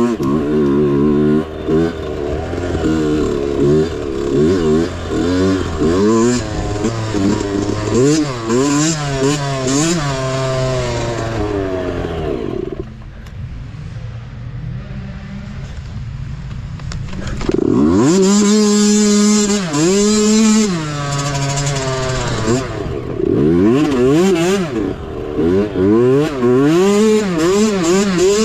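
Mini bike engine revving up and down over and over as the throttle is worked along a trail. About halfway through it drops to a lower, quieter note for a few seconds, then picks up again.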